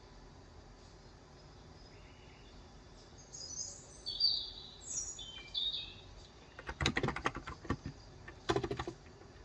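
Birds chirping in a quick run of high notes, followed by typing on a COX Endeavor electro-capacitive (Topre-style) keyboard with 35 g switches: a fast run of keystrokes about seven seconds in and a short burst just before the end.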